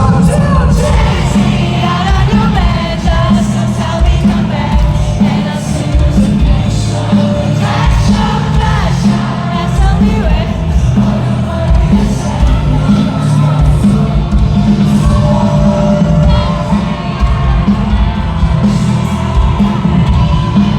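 Live pop band performance: a singer over a heavy, steady bass-and-drum beat, with crowd voices mixed in.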